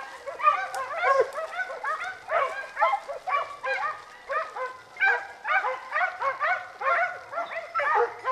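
A pack of hunting hounds baying and yelping, several voices overlapping in quick repeated cries, about two to three a second.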